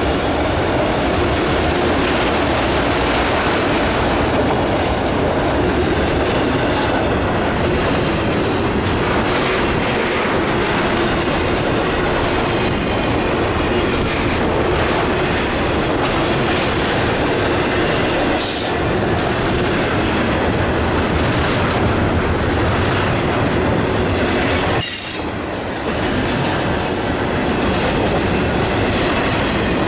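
Norfolk Southern freight train of autorack and intermodal cars rolling past: a steady, loud rumble of steel wheels on rail. It dips briefly about 25 seconds in.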